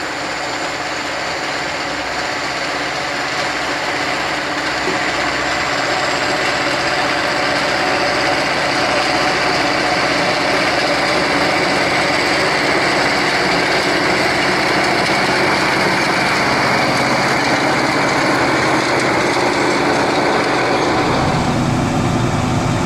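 Vehicle engine running steadily, slowly getting louder, with a deeper rumble coming in near the end.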